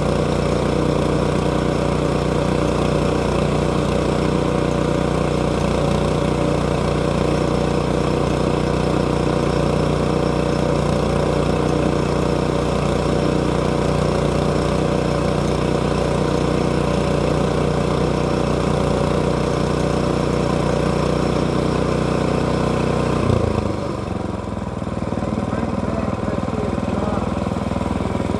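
Sawmill's petrol engine running steadily under power. About 23 seconds in, its pitch drops and it carries on at a lower speed.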